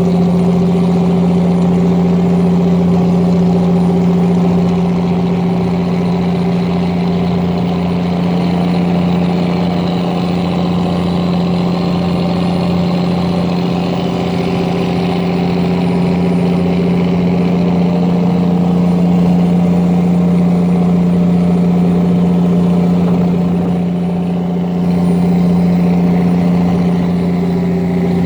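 An engine running steadily: a constant low drone with a strong hum and its overtones, barely changing throughout.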